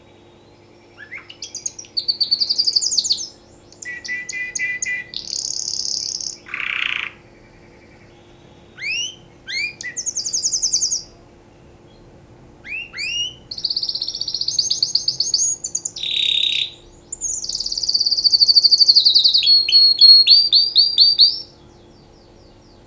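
Domestic canary singing: a string of song phrases made of fast trills and rapid repeated notes, separated by short pauses, stopping about a second before the end.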